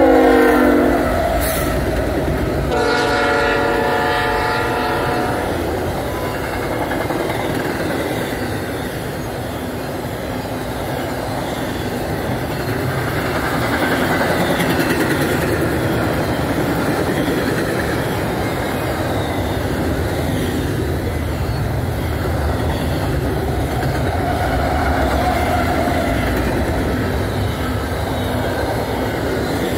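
Freight locomotive air horn sounding as the CSX GE ES44AH units pass, its chord dropping in pitch in the first second, then a second horn blast about three seconds in lasting about two and a half seconds. After that, the steady rumble and wheel clatter of double-stack intermodal cars rolling past.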